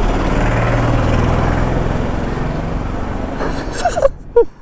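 A motor vehicle's engine running past: it is loudest about a second in and then fades away.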